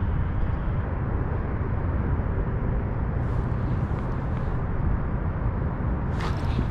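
Wind buffeting the camera microphone: a steady, gusty low rumble. A few sharp clicks near the end.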